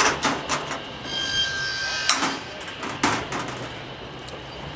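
Hammer blows in an irregular rhythm, typical of roof work fitting sheet-metal chimney cladding: a quick cluster of three at the start, then two sharper knocks about two and three seconds in.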